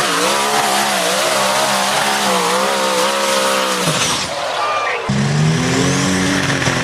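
Pulling tractor engine running hard under load, its pitch wavering up and down, then cutting off about four seconds in. A second engine comes in steadier about a second later.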